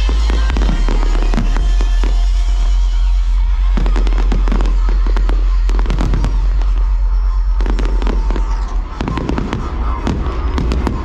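Fireworks display: aerial shells bursting and crackling in quick volleys over loud show music with a heavy bass. The crackles come thickest about four seconds in and again near the end.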